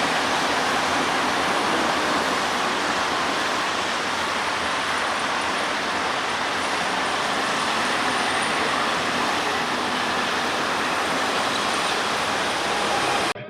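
Express train passing close by: a steady, loud rolling noise of the coaches' wheels on the rails that holds evenly and then cuts off abruptly right at the end.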